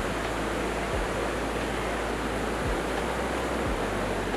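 River waterfalls rushing in a steady, even roar of falling water, with a few soft low thumps.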